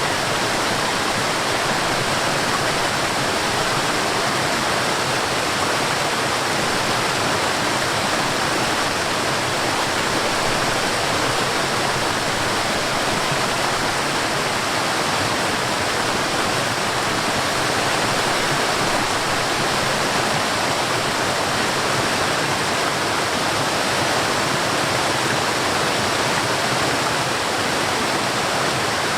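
Forest waterfall: water falling and rushing in a steady, unbroken roar, with no other events.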